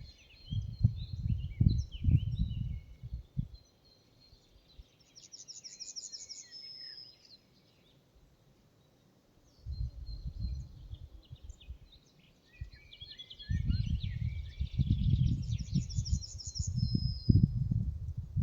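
Forest songbirds singing, short chirping notes with a high trill twice. Under it a low, gusty rumble comes and goes: loud at the start, dropping away for several seconds, then back from about ten seconds in.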